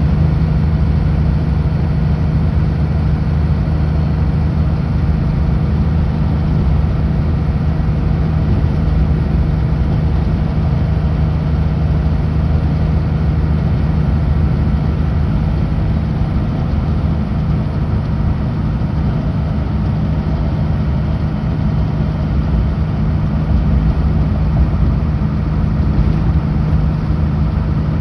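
Kenworth W900L truck's diesel engine running steadily, a deep, even drone with no change in pitch or loudness.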